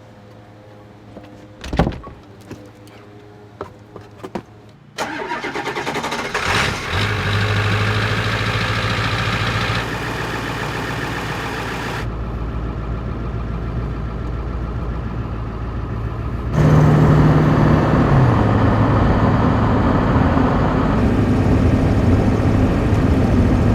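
A few clicks and a knock, then about five seconds in a pickup truck's engine starts and runs steadily. It goes on idling and driving, its sound changing abruptly several times.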